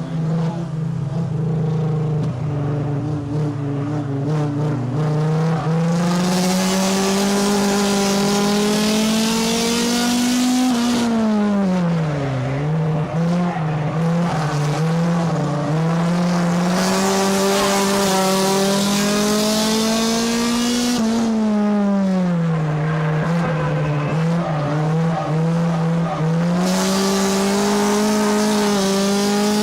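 Race car engine heard from inside the car, climbing in pitch along the straights and dropping sharply twice as the driver lifts for the turns, then pulling back up.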